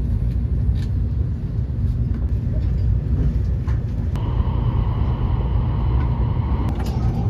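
Taiwan High Speed Rail train running with a steady low rumble; about four seconds in a steady higher whine joins it.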